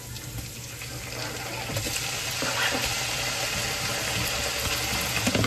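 Raw chicken pieces going into a hot wok of oil and garlic, sizzling in the fat. The sizzle grows louder about two seconds in as the meat hits the oil, with a couple of knocks of the utensil near the end.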